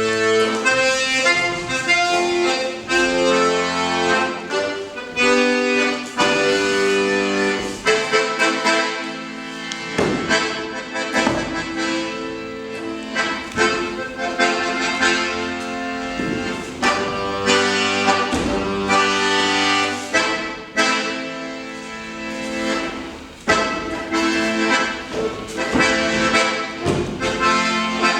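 Accordion music: sustained chords that change every second or two, with sharp accents here and there.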